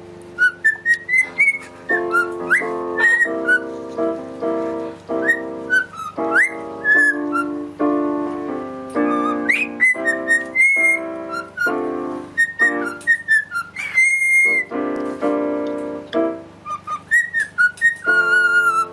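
Whistling with short swooping notes over music with sustained chords.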